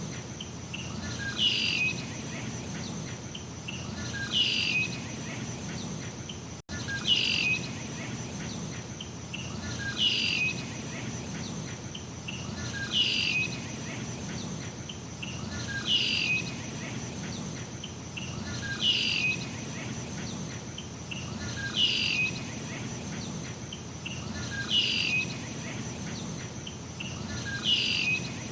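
Steady high-pitched insect chorus of crickets or cicadas, with a bird repeating a short downward-sliding call about every three seconds. The audio drops out for an instant about a third of the way in.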